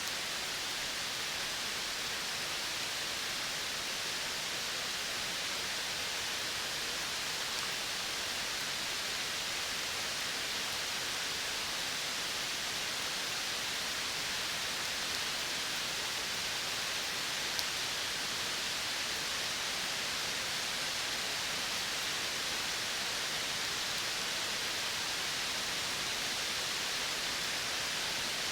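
Steady, even hiss of a natural outdoor soundscape, high in pitch, with no distinct calls or knocks standing out.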